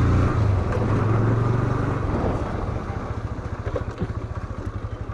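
Motorcycle engine running, then dropping to a slower, evenly pulsing low putter about two seconds in as the revs come down.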